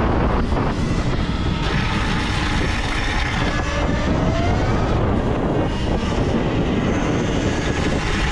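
Talaria electric dirt bike in supermoto trim riding hard, its electric motor whining up and down in pitch as it accelerates and slows, over heavy rushing wind and tyre noise.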